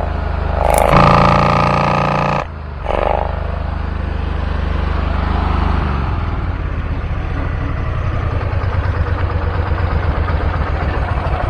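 Kohler engine on a zero-turn mower running at raised throttle but failing to rev up, even with the governor worked by hand: the owner suspects a fuel problem. The drone shifts about two and a half seconds in, and from about halfway on it pulses evenly and unevenly surges.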